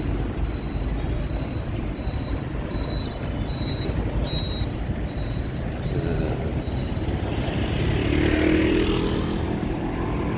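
Street traffic: a steady rumble of passing vehicles, with one vehicle going by close about eight seconds in, its sound rising and then falling away.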